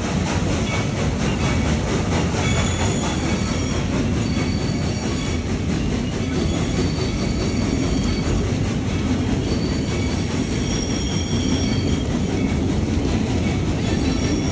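Steam locomotive and its train running along the track: a steady rumble, with thin, high wheel squeals coming and going.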